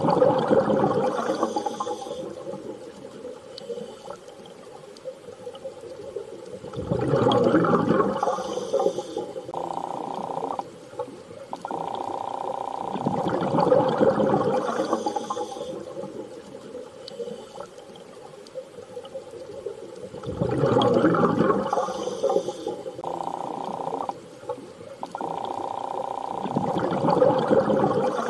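Underwater-style water ambience: a swelling rush of water comes and goes about every seven seconds, with a steady hum-like tone in the lulls between swells.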